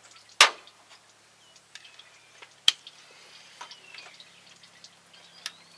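Scattered light clicks and clinks of hand tools on metal during engine teardown, with three sharper clinks about half a second in, near the middle and near the end.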